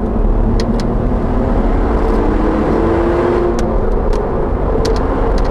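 Audi RS4 engine and road noise heard from inside the cabin at speed, a steady rumble with the engine note slowly rising. Several sharp clicks are scattered through it.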